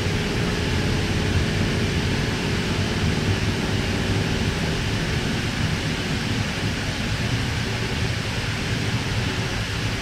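Steady rumble and wheel-on-rail noise heard inside a moving K-set electric train carriage. A faint whine drops away early and comes back near the end.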